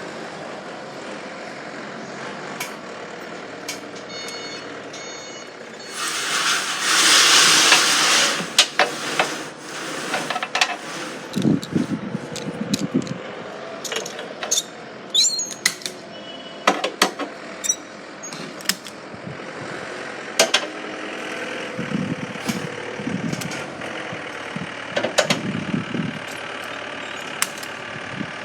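Around a heavy goods lorry, a loud hiss of air lasting about two seconds comes about six seconds in, followed by a long run of sharp knocks and clatters over steady background noise.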